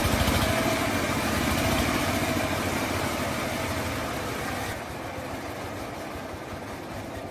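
Old diesel engine running at idle with a rapid, steady firing pulse, growing quieter over the second half.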